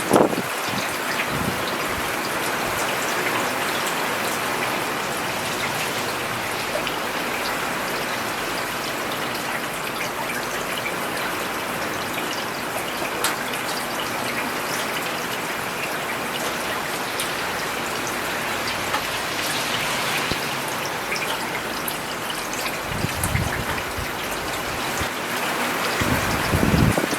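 Steady rain falling on a paved road: an even hiss with individual drops ticking through it. A low rumble swells briefly twice near the end.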